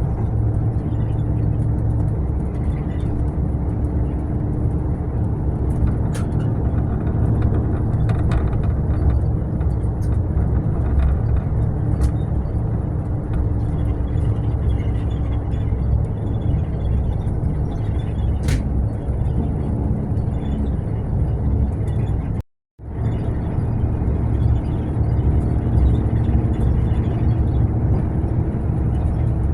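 Mercedes-Benz long-distance coach on the move: a steady engine and road rumble with a faint hum, broken by a short cut to silence about 22 seconds in.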